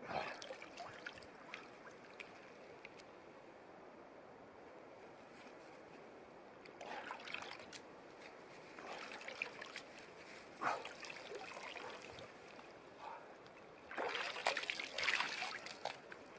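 Water splashing and trickling in irregular bursts over a faint steady background hiss, with the loudest splashes near the end.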